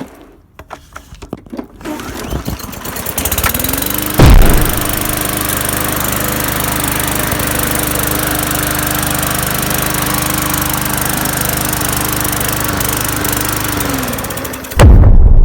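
Lawn mower starting up and running steadily for about ten seconds, its pitch rising as it comes up to speed and falling as it winds down near the end. There is a sharp knock about four seconds in, and a loud low rumble starts just before the end.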